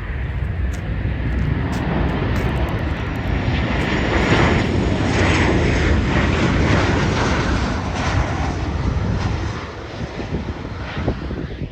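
A jet airliner's engines as it passes, the noise swelling to a peak about halfway and then fading away.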